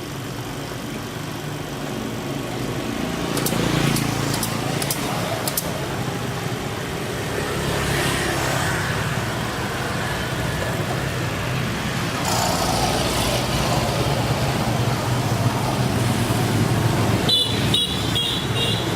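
Refrigeration vacuum pump running steadily with a low hum while it evacuates a mini refrigerator's sealed system, with traffic-like noise mixed in. A few sharp clicks come about four seconds in, and a short run of high beeps comes near the end.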